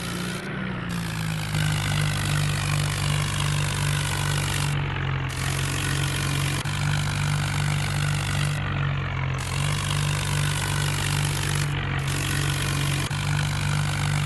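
John Deere tractor's diesel engine running steadily at a constant speed, its pitch dipping slightly about half a second in.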